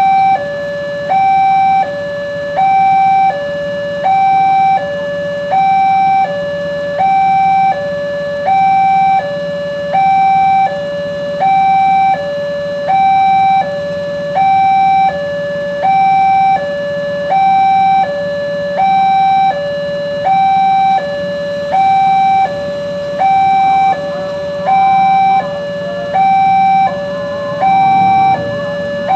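Electronic two-tone warning alarm of an Indonesian railway level crossing, sounding continuously. It alternates evenly between a higher and a lower tone, about one high-low pair every second and a half, signalling that a train is approaching and the barriers are down.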